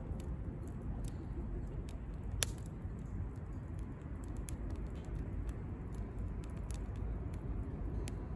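Campfire crackling with scattered sharp pops, one louder pop about two and a half seconds in, over a steady low rumble of city traffic.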